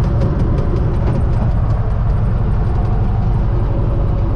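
Universal U650 tractor's four-cylinder diesel engine running steadily, a constant low drone.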